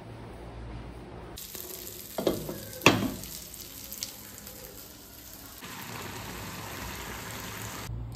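Food sizzling in a pot on a hotplate while a wooden spatula stirs it, knocking sharply against the pot a few times between about two and four seconds in; the sizzle settles into a steady hiss near the end.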